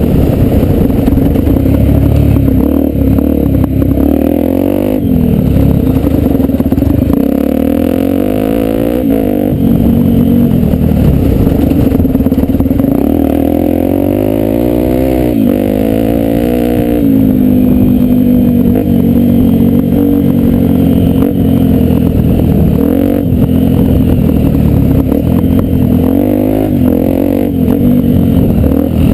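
Honda Tornado 250's single-cylinder four-stroke engine running under way off-road, its pitch rising and falling every few seconds with throttle and gear changes, with clattering knocks from rough ground.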